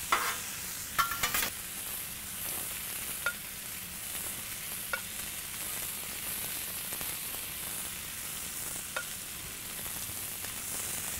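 Onion and jalapeño slices sizzling on a hot steel flat-top griddle, a steady hiss, with melted pork lard being brushed onto the steel. A few metal spatula scrapes and clicks come in the first second and a half.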